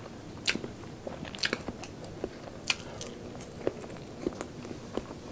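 Close-miked mukbang chewing: a person chewing a mouthful of cola-braised pork and boiled egg, with irregular wet mouth smacks and clicks.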